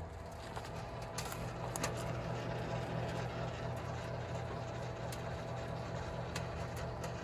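Microwave oven running with a circuit board inside: a steady low hum, broken by scattered sharp crackles and pops as the board burns and arcs.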